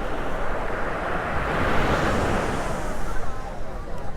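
Ocean surf washing on the beach, a wave swelling to its loudest about halfway through and then fading, over a steady rumble of wind on the microphone.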